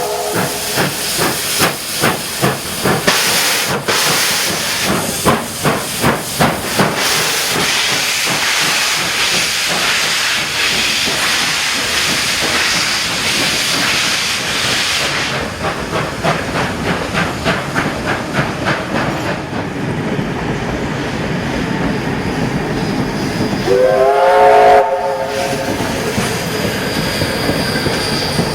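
Steam locomotive running, with a rapid run of exhaust beats and hissing steam. About three-quarters of the way through it gives a short blast of about a second on its multi-note steam whistle, the loudest moment.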